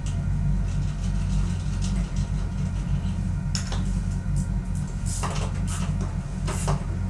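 A tractor tire being mounted onto a shaft stub: a few sharp metal clanks and knocks, several of them close together about five seconds in, over a steady low rumble.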